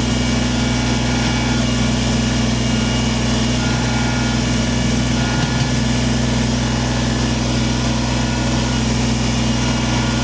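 Kubota compact tractor's diesel engine running steadily while it grades stone, with an even, unchanging engine note.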